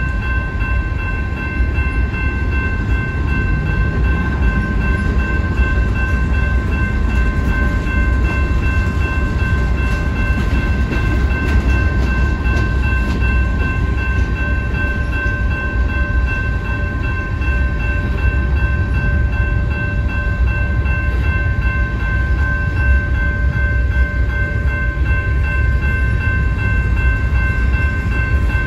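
Freight train cars rolling steadily past a grade crossing with a heavy low rumble of wheels on rail, while the crossing's warning bell rings on as a steady high ringing.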